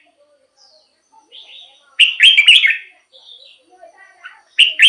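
Red-whiskered bulbul singing: a loud, quick warbled phrase about two seconds in and another starting near the end, with softer chirps in between.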